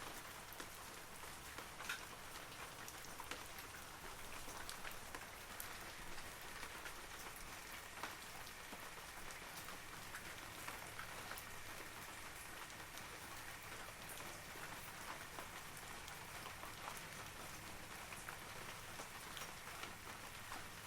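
Steady rain falling on forest trees: an even hiss with many scattered small drop ticks.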